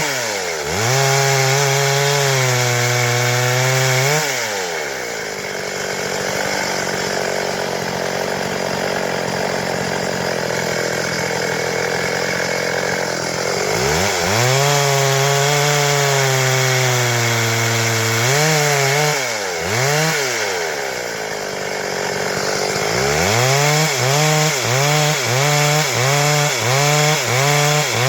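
Stihl MS 382 two-stroke chainsaw revving high and falling back, running at a lower, steadier note for several seconds, then revving again. Near the end the throttle is blipped over and over, about twice a second.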